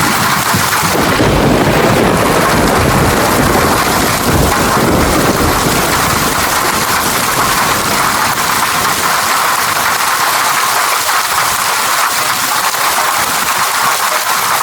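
Steady heavy rain falling, with a low rumble of thunder from about a second in that dies away after a few seconds.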